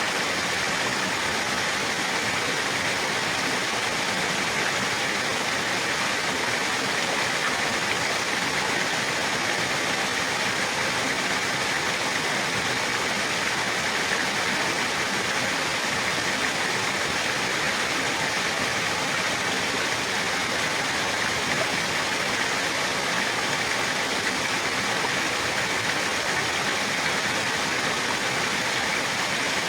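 Running water, a steady unbroken rush of a stream or small waterfall.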